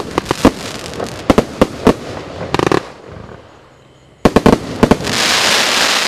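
A 25 mm multi-shot firework cake (MaxSem 'Red Wave', 49 shots) firing: a rapid run of sharp bangs, a brief buzzing tone and a lull about three seconds in, then another quick cluster of bangs and a long steady hiss near the end.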